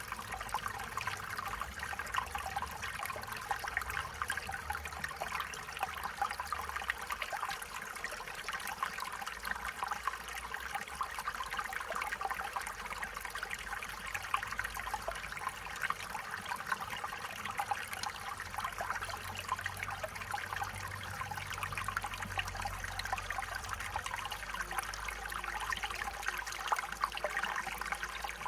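Stream water running steadily over rocks, a continuous babble with fine trickling splashes.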